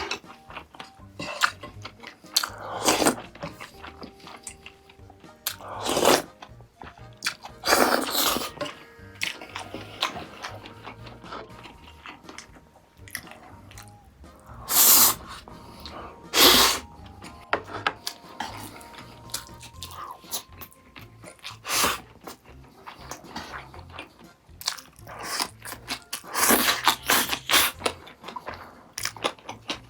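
Close-miked eating sounds: irregular chewing, biting and crunching of food, with a dozen or so louder short mouth sounds. Quiet background music plays underneath.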